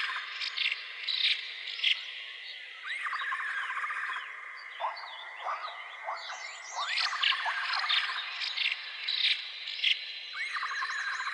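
Outdoor chorus of wild animal calls: many short bird chirps and whistles over a buzzing, rattling trill that recurs about every four seconds.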